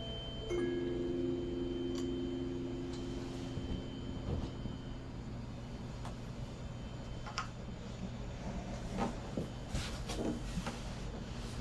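A low ringing tone from a struck sound-healing instrument, sounding about half a second in and dying away over a few seconds, followed by scattered light clicks and knocks of instruments being handled.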